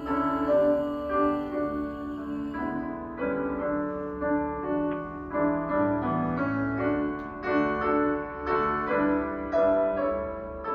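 Solo piano playing the closing bars of an art-song accompaniment, with no voice: a run of struck notes and chords at a gentle, even pace.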